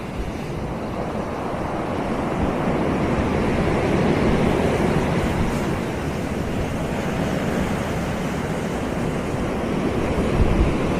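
Ocean surf, waves breaking and washing up a sandy beach in a steady rush that swells to a peak about four seconds in. Wind rumbles on the microphone near the end.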